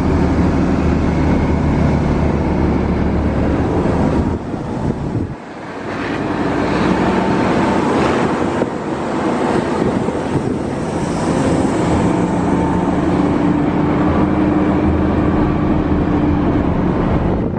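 A motor vehicle running, with its engine and road noise steady apart from a brief drop about five seconds in.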